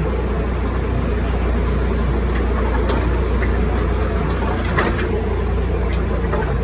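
MBL inboard marine engine running steadily.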